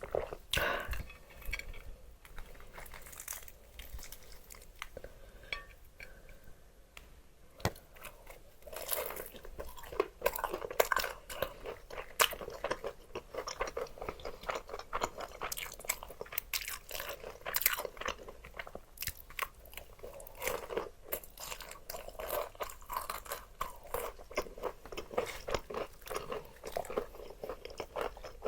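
Close-miked chewing of crispy fried chicken: the crunch and crackle of a crisp coating between the teeth. Quieter chewing at first, then dense, sharp crunching from about eight seconds in.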